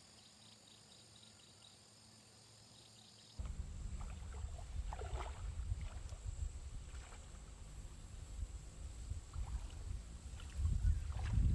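Near silence, then about three seconds in a low, fluctuating rumble starts abruptly, like wind buffeting the microphone outdoors, with faint scattered rustles above it; it grows louder near the end.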